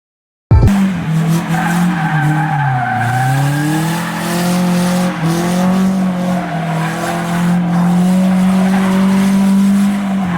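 Car engine revving hard, its pitch dipping about two seconds in and again around five seconds in, then held high, with tyre squeal as the car slides. It cuts in suddenly about half a second in after silence.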